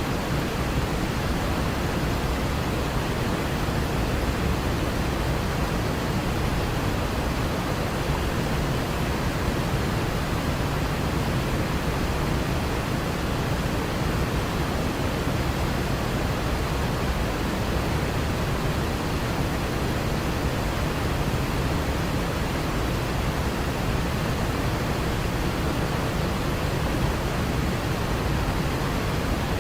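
Waterfall, water falling and rushing as a steady, unbroken noise that is heaviest in the low end.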